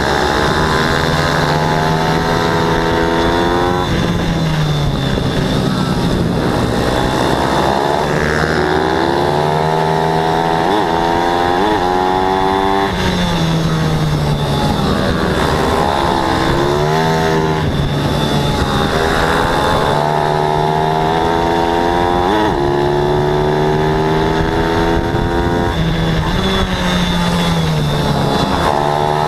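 Racing pit bike's single-cylinder four-stroke engine at high revs, climbing in pitch for a few seconds and then dropping, over and over, as it accelerates, shifts and brakes around the track.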